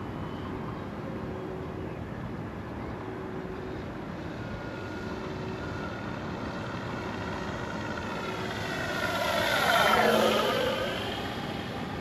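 Electric FlightLine F4U Corsair RC warbird, fitted with an onboard engine-sound system, flying by: a faint steady drone swells to a brief loud peak about ten seconds in as it passes, then falls away.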